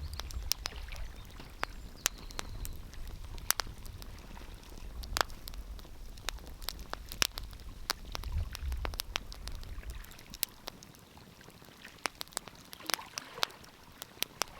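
Wood fire crackling in a fireplace, with irregular sharp pops and snaps. A low rumble underneath drops away about ten seconds in.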